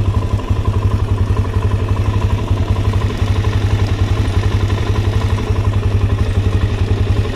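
Quad (ATV) engine idling steadily, with an even, rapid putter.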